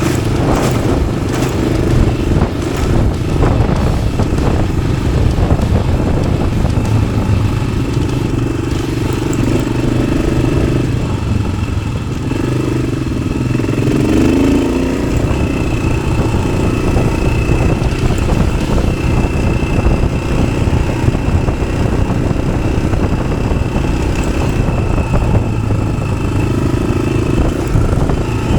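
Yamaha XT600 single-cylinder four-stroke engine running under way through an Arrow aftermarket exhaust, its note rising and falling with the throttle, with a clear dip and climb about halfway through.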